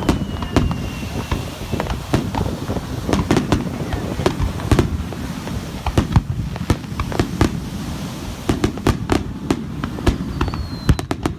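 A fireworks display: a continuous rumble of shells bursting, with many sharp bangs and a quick run of crackling reports near the end.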